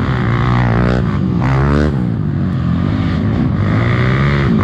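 Trail motorcycle engines revving, their pitch climbing and dropping several times, with a steady lower engine note underneath.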